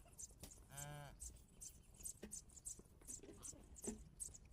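One short moo from a cow, about a second in, faint and brief.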